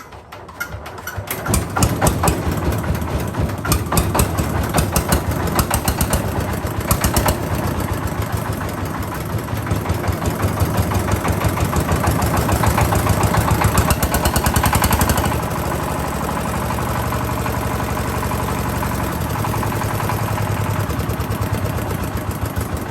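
Single-cylinder Quanchai D15 diesel engine, freshly rebuilt with new piston rings and valves, starting up and running with rapid, even firing strokes. About fifteen seconds in it drops to a slightly quieter, steadier speed.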